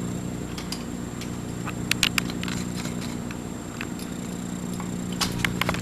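A steady low mechanical hum, with a few sharp clicks and taps about two seconds in and a quick cluster of them near the end.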